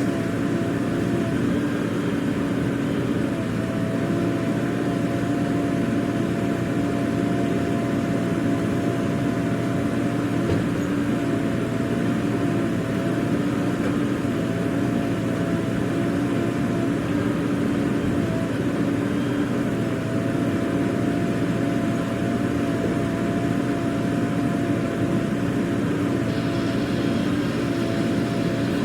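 Heavy diesel engine running steadily at a constant speed, with a faint wavering whine above the engine note.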